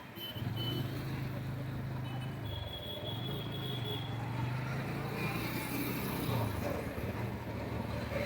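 Motorcycle engine running steadily on the road, with road and traffic noise. Its pitch dips and climbs again about two and a half seconds in and once more later, as the throttle changes.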